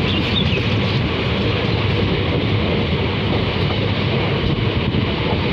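Steady running noise of an Intercity Express train's coaches rolling along the track, heard from aboard the moving train: an even, low rumble of wheels on rail with a hiss of rushing air.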